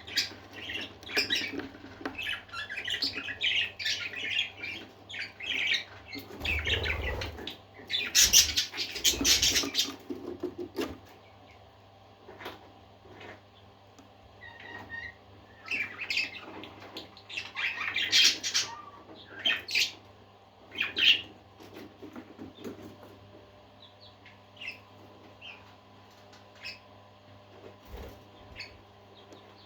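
A group of parakeets chirping and squawking, with many short calls overlapping and busiest and loudest in the first ten seconds. The calls then thin out to scattered chirps, with another flurry a little past the middle. A steady low hum runs underneath.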